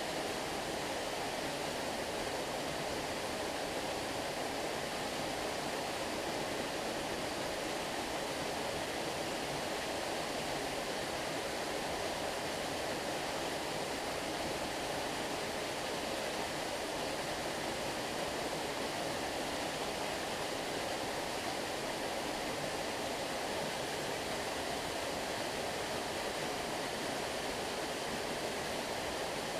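Flowing stream water rushing steadily, an even noise that does not change.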